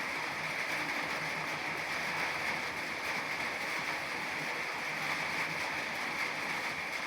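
Rain falling steadily, an even hiss of water with no break.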